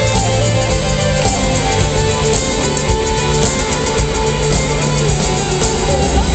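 Live rock band playing an instrumental passage, no singing, with a steady beat and held bass notes.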